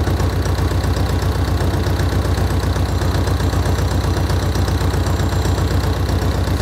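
Mexican-built VW Beetle's air-cooled flat-four engine idling steadily, with an even, rhythmic pulse.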